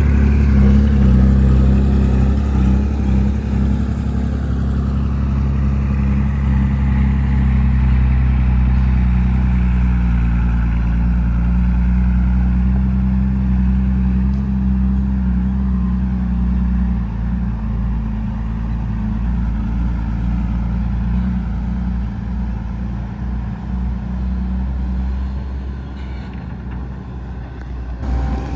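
Heavy diesel engine of earthmoving machinery running steadily with a deep, even note, easing a little about two-thirds of the way through.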